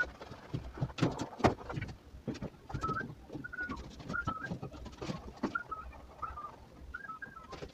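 A bird calling in short, wavering chirps repeated every half second or so, with scattered knocks and taps around them.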